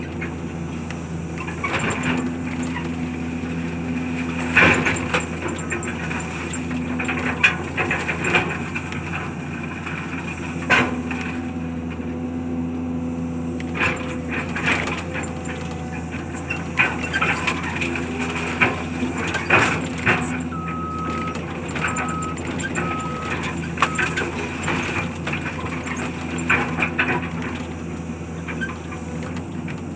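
Heavy diesel demolition machinery running steadily, with repeated cracking and crunching of breaking material. Four short, evenly spaced beeps of a backup alarm sound about two-thirds of the way through.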